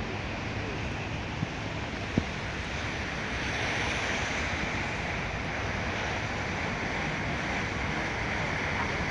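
Light rain falling in a steady hiss, with two short ticks about one and a half and two seconds in, the second the louder.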